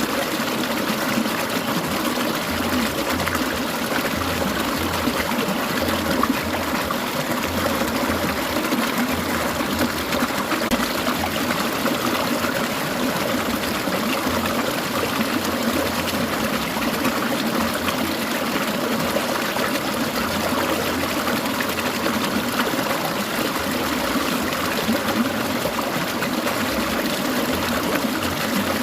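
A clear mountain stream trickling and burbling over stones, a steady unbroken water sound.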